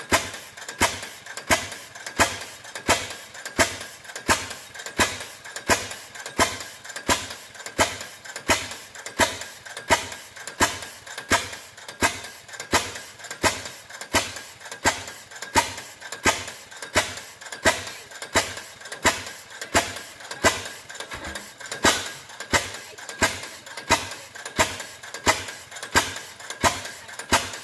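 Old Fairbanks Morse stationary engine running slowly, each firing stroke a sharp, even knock, about 1.4 beats a second.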